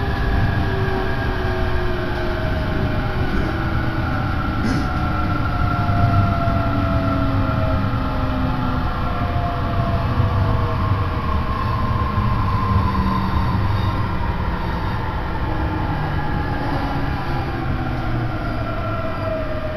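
Electric train heard from inside the carriage: a steady rumble of wheels on the track with the motors' whine slowly falling in pitch as the train slows.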